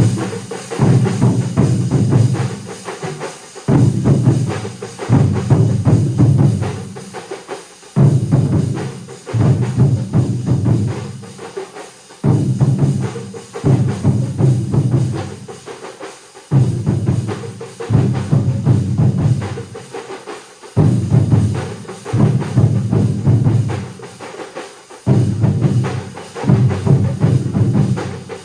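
Large ensemble of drummers playing together in a repeating phrase: a loud, dense burst of drumming about every four seconds that dies away before the next one.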